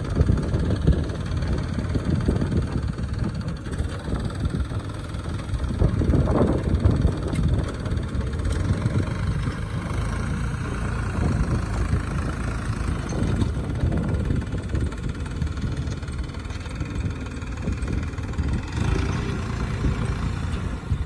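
Yanmar F535 tractor's diesel engine running steadily while pulling a plow, with a low, uneven rumble that swells briefly about six seconds in.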